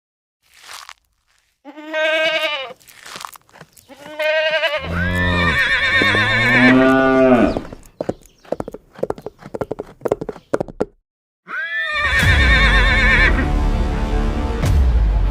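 Farm animal calls: two short wavering bleats, then a longer, lower call. A run of clicks follows, and music starts about twelve seconds in.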